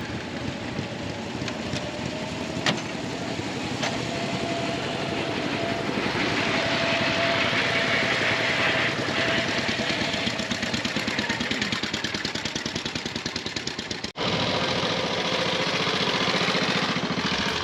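Pre-1919 veteran vehicle engine running with a fast, even beat, cutting out briefly about 14 seconds in.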